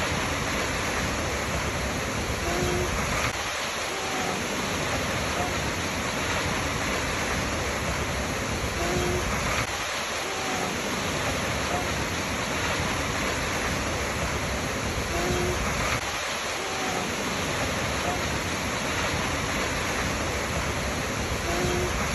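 Waterfall rushing steadily, with a short faint pair of chirps repeating about every six seconds.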